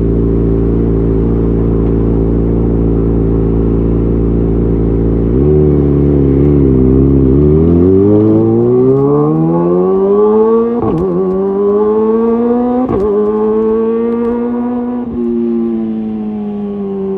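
Kawasaki ZX-25R's 250 cc inline-four through a Leovince GP Evo exhaust, holding a steady note, then about five seconds in climbing in pitch as it accelerates. It breaks briefly three times, at each gear change, and rises again after each one.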